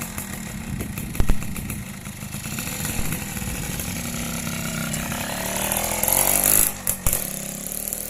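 Yamaha V80 motorcycle with a transplanted two-stroke Yamaha F1Z R engine, running with its buzzy two-stroke note. The revs rise about six seconds in and drop back a second later, and a couple of sharp knocks come about a second in.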